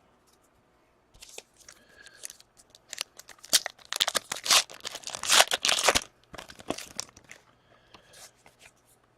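A foil trading-card pack wrapper crinkling and tearing as a pack of 2017-18 O-Pee-Chee hockey cards is ripped open. The crinkling is loudest about three to six seconds in.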